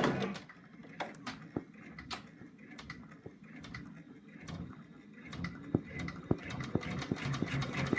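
Home embroidery machine stitching out a placement line on stabilizer: a low motor hum with a rapid, regular ticking of the needle, growing louder and more even over the last few seconds.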